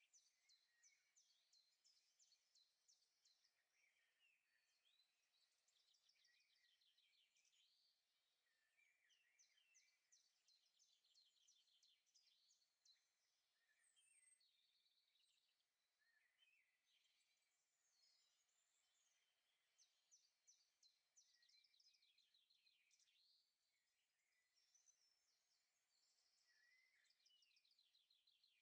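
Faint woodland birdsong: several small birds singing at once, with rapid trills and quick runs of repeated high notes overlapping throughout.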